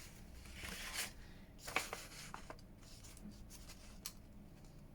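Faint paper rustling and handling with a few short sharp clicks, the loudest a little under two seconds in, as a 1.5 inch circle punch cuts a thumb hole in a paper envelope.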